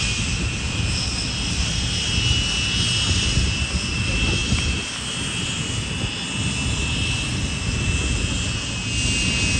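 Aircraft engine noise heard inside the cockpit in flight: a continuous low rumble with a steady high whine above it.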